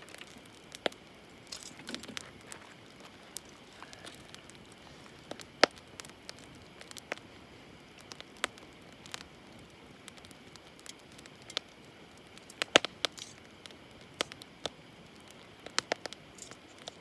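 Wood campfire crackling, with irregular sharp pops over a faint steady hiss; a quick run of louder pops comes about two-thirds of the way through.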